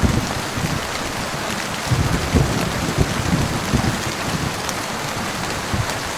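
Steady heavy rain hissing on a surface, with low rumbling underneath that swells twice, about two seconds in and again near the end: distant thunder.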